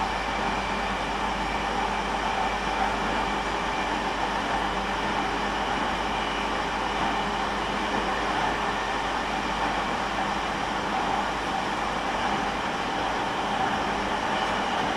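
Running sound from inside a JR East E231 series electric commuter train with its original, unrenewed inverter, travelling steadily along the track. It is a constant rumble of wheels on rail with a few steady hum tones, and no rising or falling pitch.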